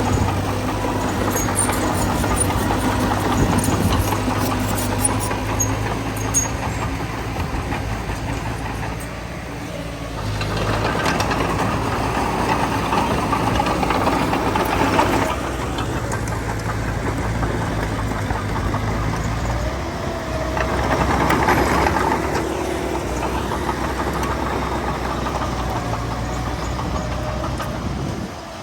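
Heavy diesel engines of a bulldozer and dump trucks running at a land-filling site, with the engine note and loudness changing abruptly several times.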